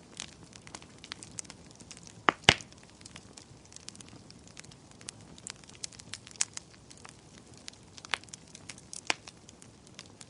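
Wood fire crackling: irregular sharp snaps and pops over a faint low hiss, with two loud pops in quick succession about two and a half seconds in.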